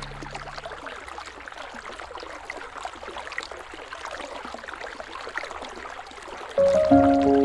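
River water babbling and trickling, with many small irregular splashes. Soft music with held notes fades out in the first second and comes back, louder than the water, about six and a half seconds in.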